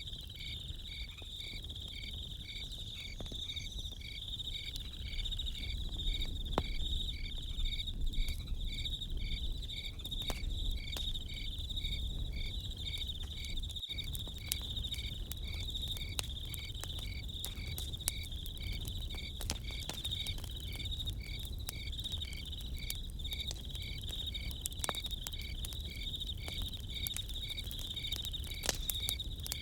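Crickets chirping in a steady, even pulse of about two to three chirps a second over a continuous high insect trill, with scattered sharp crackles and pops from a campfire.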